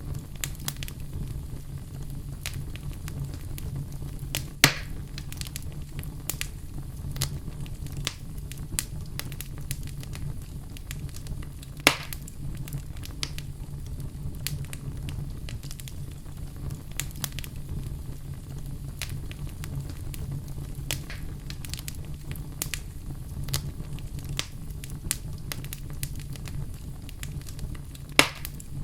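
Fire burning in a fireplace, crackling steadily over a low rumble, with three loud sharp pops spread through it.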